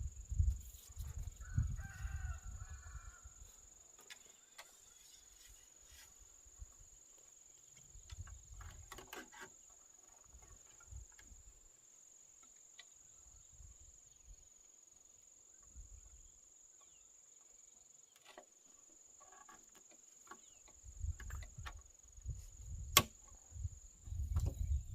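A steady high-pitched insect drone runs throughout, with scattered knocks, clicks and low thumps of hand work, busiest near the start and in the last few seconds.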